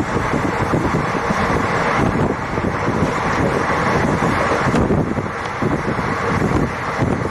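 Passenger express train running: a steady rumble of the moving train with wind buffeting the microphone.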